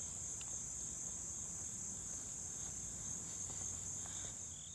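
Insect chorus outdoors in late summer: a steady, high-pitched trill that runs without a break.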